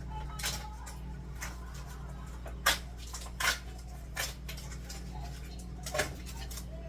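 Scattered sharp clicks and knocks of food containers and items being handled and set down, about five in all, the loudest a little under three seconds in, over a steady low hum.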